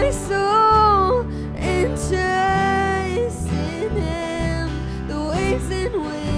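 Live worship band playing a slow song, with a singer's voice gliding between held notes over steady low chords.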